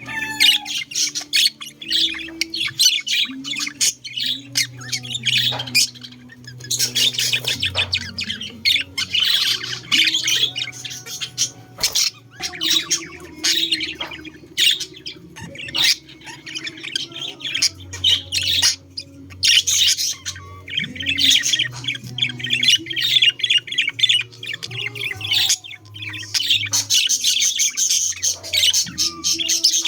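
Budgerigars chattering and warbling without pause, a dense stream of chirps mixed with quick clicks.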